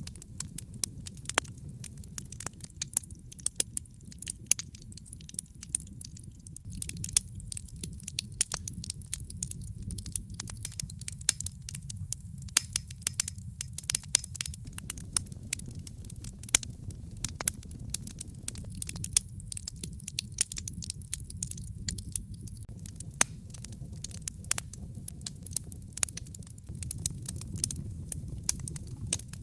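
Wood fire crackling in a fireplace, with frequent irregular sharp pops and snaps over a low steady rumble.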